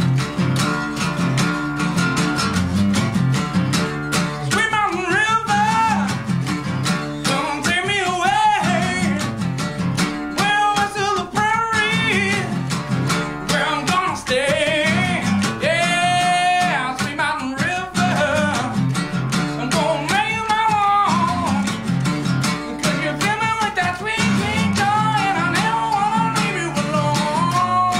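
Live acoustic performance: strummed acoustic guitar with a male voice singing over it, the singing coming in after a few seconds of guitar.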